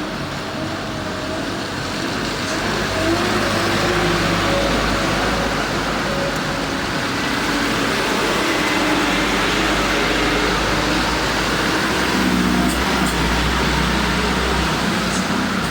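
A motor vehicle's engine running under load, its note shifting up and down, over a dense steady hiss of heavy rain and wet road noise. It grows louder about three seconds in.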